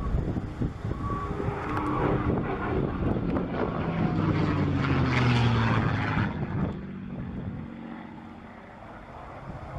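P-51 Mustang's V12 engine passing overhead, its pitch falling as it goes by. It is loudest about five to six seconds in, then fades away.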